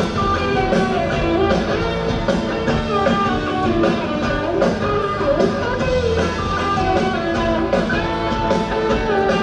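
Rock band playing the instrumental introduction of a song live: electric guitar melody over bass and a steady drum beat.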